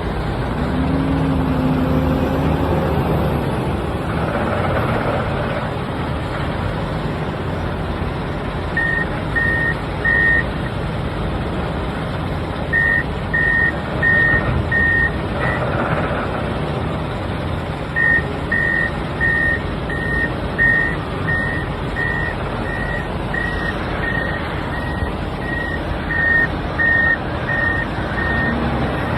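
Komatsu WA470 wheel loader's engine running steadily. A reversing alarm beeps on one pitch, about one and a half beeps a second, in runs that start about a third of the way in, pause briefly, and carry on until near the end.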